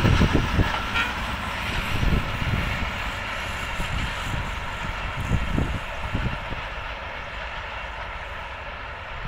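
Passenger train moving away along the track: its rumble and the clatter of its wheels on the rails fade steadily as it recedes.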